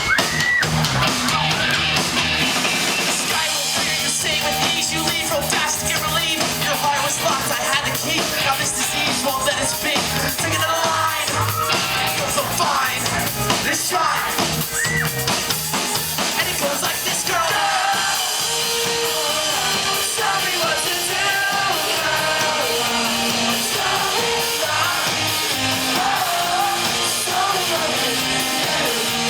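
Live pop-rock band playing a song loudly and steadily.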